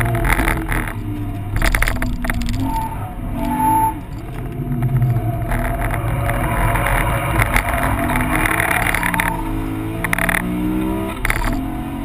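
BMW M3 E46's S54 straight-six, fitted with a CSL airbox, heard from inside the cabin while lapping a circuit. The revs climb and fall repeatedly through corners and gear changes. The sound is muffled because the camera's waterproof housing was left sealed.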